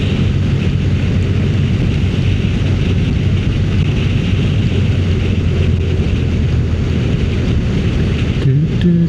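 Motorcycle engine running steadily while riding, with rushing wind noise over it. Near the end the engine note briefly rises, then settles.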